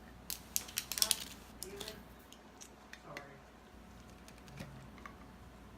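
Scattered light clicks and taps from a jar of Dijon mustard and its lid being handled and opened, busiest in the first two seconds.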